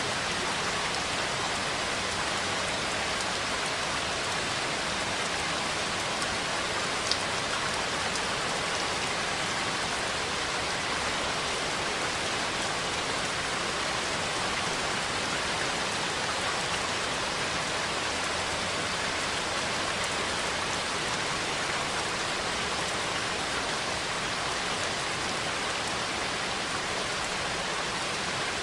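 Steady rain falling, a dense even hiss of drops on a surface, with one faint tick of a drop about seven seconds in. No thunder is heard.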